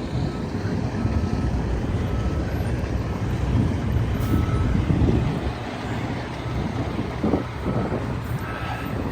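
A large vehicle engine running steadily with a low, even hum, under a rough rumbling noise.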